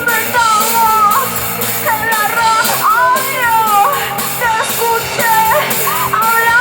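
Punk-rock band playing live, with a singing voice sliding up and down in pitch over a steady drum beat.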